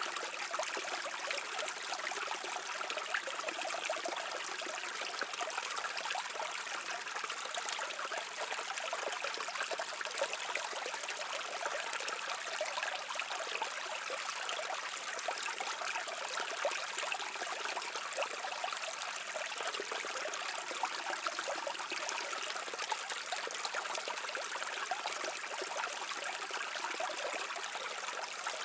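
Brook water babbling and trickling steadily over rocks, an even rushing with fine splashing detail and little low rumble.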